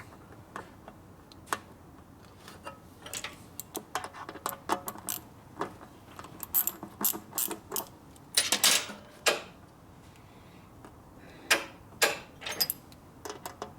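Irregular metallic clicks and clinks of hand tools and parts being handled during motorcycle assembly, with a few louder clanks past the middle.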